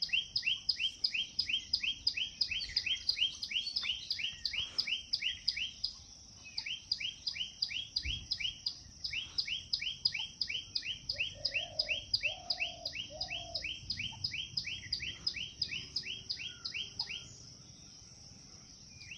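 Parrot chirping in a fast, steady series of short, high, falling chirps, about four a second, with a brief pause and stopping near the end.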